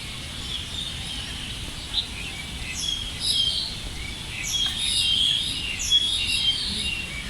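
Several small birds chirping and calling together: overlapping short chirps and quick falling whistles, busier in the second half, over a low steady background hum.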